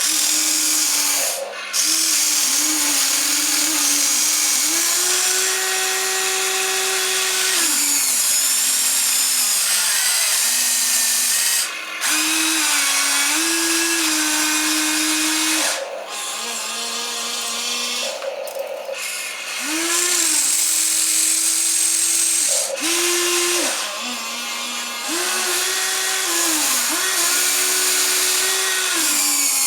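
Small electric gear motors of a toy excavator whining in spells as the machine moves. The pitch steps up and down as different motions start and stop, with a few brief pauses.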